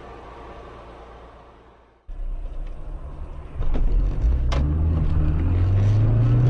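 Car road noise fading away, then after an abrupt cut a car engine and tyre noise start up. The engine note gets louder and climbs steadily as the car speeds up.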